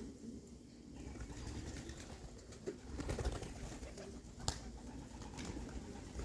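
Racing pigeons cooing softly and continuously, with a single sharp click about four and a half seconds in.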